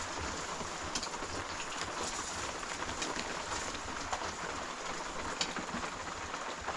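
Steady rain falling, a constant hiss with scattered sharper drips and drops.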